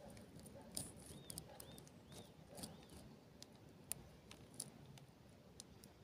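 Faint birdsong: a small bird repeating a short rising-and-falling note about twice a second, with scattered sharp high chips and ticks.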